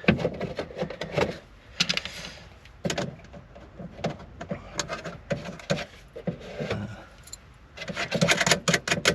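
Clinks, rattles and clicks of small metal parts as the tail light's retaining nuts are refitted and run down onto their studs by one hand, with a quick run of rapid clicks near the end.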